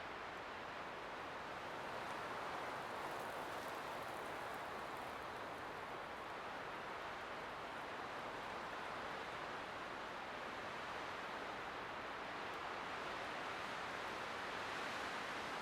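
Light wind blowing steadily, a soft even rush that swells gently in strength now and then.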